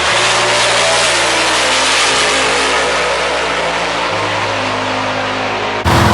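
Loud car engine at a drag strip, running hard, with its pitch stepping up or down about every two seconds. The sound jumps abruptly louder just before the end.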